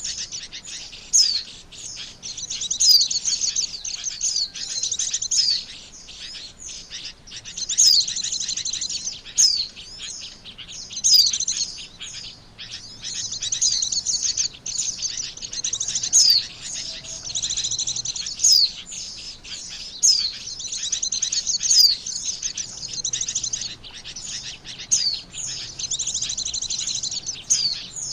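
White-eye (pleci) singing a lure call: high, rapid twittering in phrases of a second or two, broken by sharp downslurred chirps, with short gaps between phrases.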